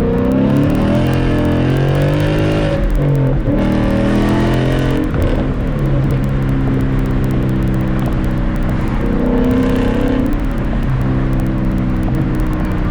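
Car engine running and changing pitch as it revs and settles, with an uneven note that makes the driver wonder if it is misfiring.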